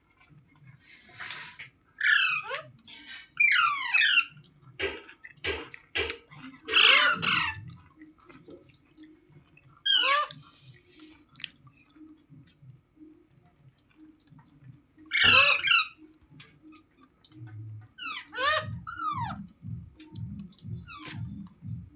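Ringneck parrot (rose-ringed parakeet) calling in short, harsh squawks that fall quickly in pitch, several bursts with pauses between them.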